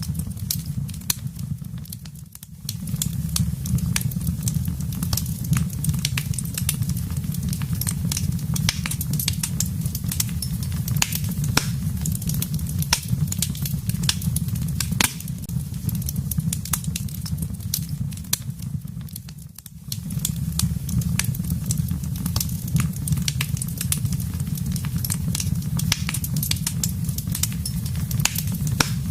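Wood fire burning in a fireplace: a steady low rumble of the flames with frequent sharp crackles and pops from the burning logs. The low rumble dips briefly twice, about two seconds in and again past the middle.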